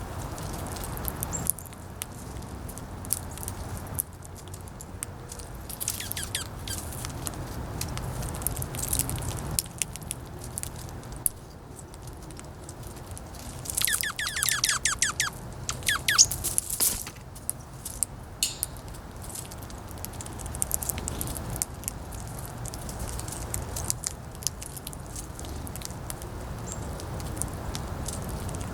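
Wind rumbling on the microphone while birds and squirrels feed on seeds, with many small scattered clicks of pecking and cracking. A bird gives a short run of chirps about six seconds in, and a louder run of rapid, falling chirps around the middle.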